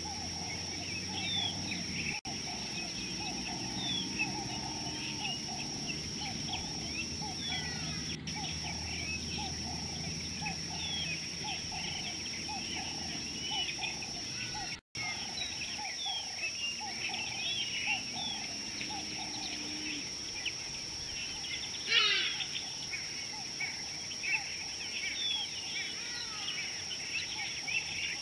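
Wild birds chirping and calling continuously in dry bush, many short overlapping chirps with a quick repeating lower call underneath, and one louder descending call about 22 seconds in.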